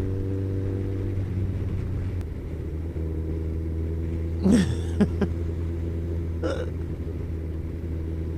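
Motorcycle engine, a Kawasaki ZZR1400 inline-four, running at a steady cruise. The drone dips briefly about two seconds in, and a few short voice-like noises cut in around the middle.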